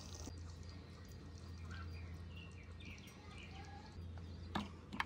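Faint, short bird chirps over a low, steady hum, with one sharp knock near the end.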